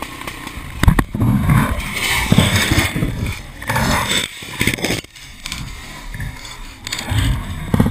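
Off-road motorcycle engine revving in uneven bursts of throttle, easing off about five seconds in before picking up again.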